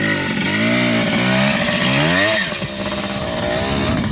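Yamaha 80cc two-stroke dirt bike engine revving hard under load. Its pitch climbs twice, then drops sharply about two and a half seconds in and settles into a lower, steadier run.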